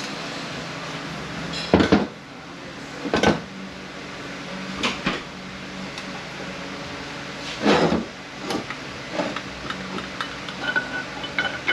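Metal parts of an automatic transmission knocking and clinking as it is taken apart and a piston is worked out: several sharp knocks a second or two apart, then lighter clicks near the end.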